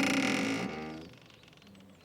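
Boat rope squeaking: one drawn-out, pitched squeak that ends in a short falling glide about two-thirds of a second in, then quieter.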